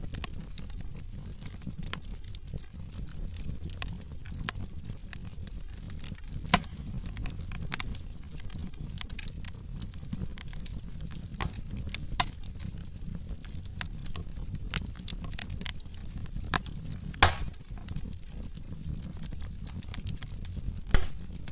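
Wood logs burning in a fireplace: a steady crackle of small snaps over a low rumble, with a handful of louder pops, the sharpest about six, twelve and seventeen seconds in and near the end.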